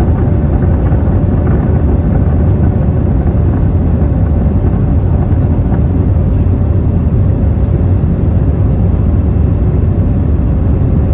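Airbus A321neo jet engines and airflow during takeoff: a loud, steady rumble, heaviest in the bass, with a faint steady hum above it.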